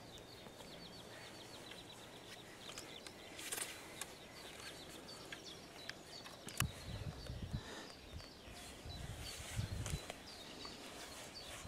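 Small birds chirping and calling again and again, with a fast run of chirps near the start. About six and a half seconds in there is one sharp click, followed by about three seconds of low rumbling.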